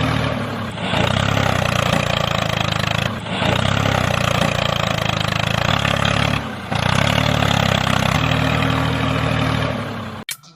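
Engine running steadily, with brief dips in level about every three seconds; music starts just before the end.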